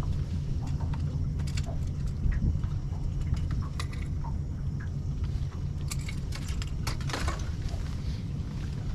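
Fishing tackle being handled in a boat, with scattered clicks and rattles over a steady low rumble.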